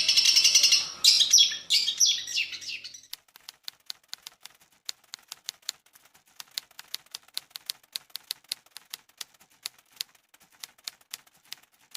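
A songbird chattering in a fast, continuous run of high chirps, breaking up and stopping about three seconds in. After that comes a run of faint, sharp, irregular clicks, a few a second.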